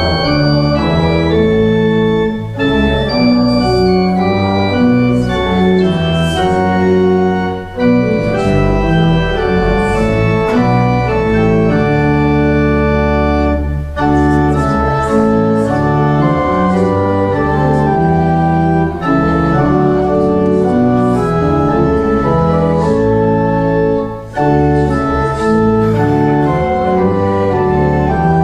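Church organ playing a hymn in sustained chords that change every second or so, with short breaks between phrases.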